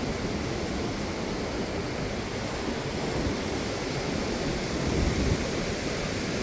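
Ocean surf washing steadily on the beach, with wind rumbling on the phone microphone and a stronger gust about five seconds in.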